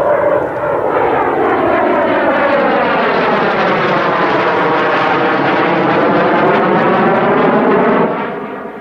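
Military jet aircraft flying low past and overhead. It is loud and steady for about seven seconds, its whooshing tone sweeping down and back up as it passes, then fading about eight seconds in.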